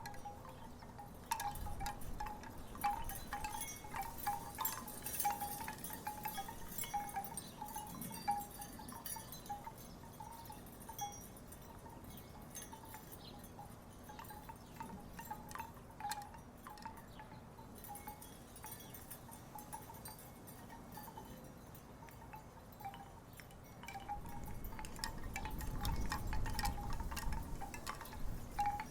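Wooden tiki wind chimes knocking together in the breeze: many irregular hollow clacks, each ringing at about the same pitch, busier in stretches. Near the end a low rumble comes in and the clacking grows louder for a few seconds.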